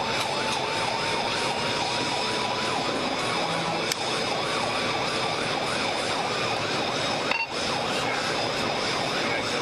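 Police car siren in a rapid yelp, rising and falling about three times a second, over steady engine and road noise during a high-speed pursuit.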